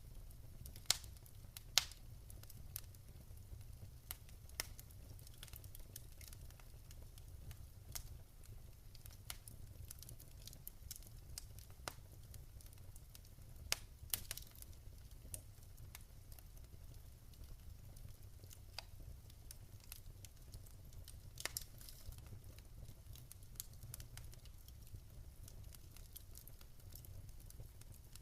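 Wood fire crackling in a fireplace: irregular sharp pops and snaps over a soft low rumble, with the loudest pops about a second and two seconds in and again around fourteen seconds.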